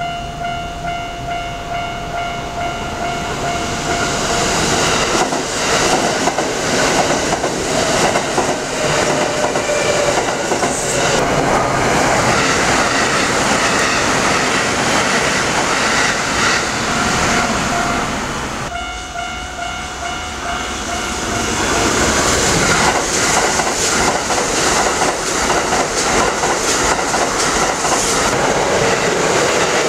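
Kintetsu electric trains running past at speed, the wheels clattering over the rail joints. A ringing tone of several pitches sounds over the train noise near the start and again just after an abrupt change in the sound about 19 seconds in.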